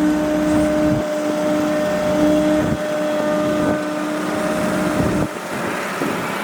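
Excavator engine running steadily, with a constant droning tone.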